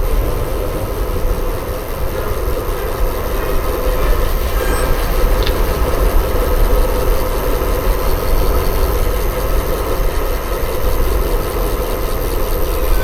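Steady rush and rumble of wind on the microphone, with tyre and road noise, from a bicycle riding along a road.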